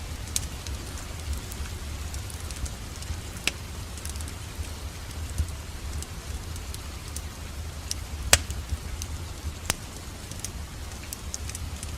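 Wood fire crackling in a fireplace: a low steady rumble under scattered sharp pops. The loudest pop comes about eight seconds in.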